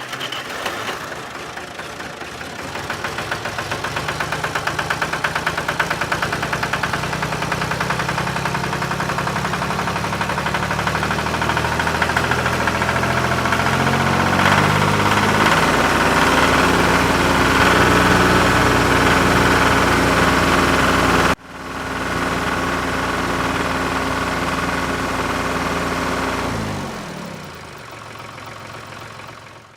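A small engine running with an even, pulsing beat, picking up speed over the first half. It breaks off abruptly about two-thirds of the way through, starts again, and falls quieter near the end.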